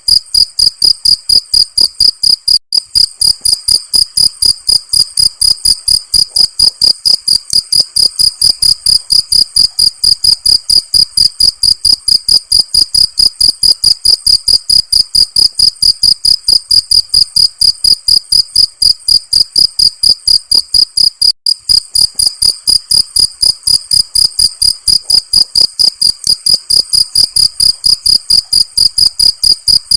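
Cricket chirping in a fast, very even rhythm of high-pitched chirps, about three to four a second, without a break.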